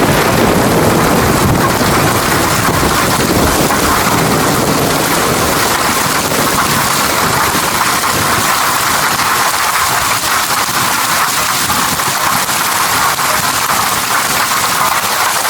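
Steady heavy rain falling, an even hiss of drops. A low rumble runs underneath for the first half and dies away about halfway through.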